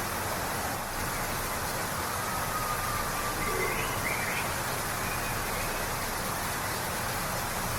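Waterfall rushing with a steady, even roar of water. A few faint bird notes come through it around the middle.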